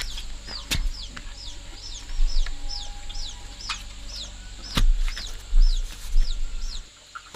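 Chicks peeping in a steady run of high chirps, each sliding down in pitch, about three a second. Low rumbling and a few knocks run under them.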